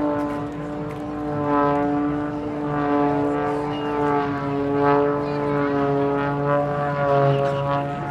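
Extra 330SC aerobatic plane's piston engine and propeller droning through tumbling barrel rolls. It is a steady engine note that shifts slightly in pitch and swells and fades in loudness as the plane manoeuvres.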